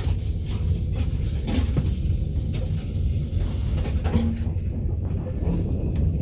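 Minivan driving slowly on a rough back road, heard from inside the cabin: a steady low rumble with irregular knocks and clatter. The 2008 Nissan Quest has a worn front hub and a failing CV axle, and the driver says it sounds awful.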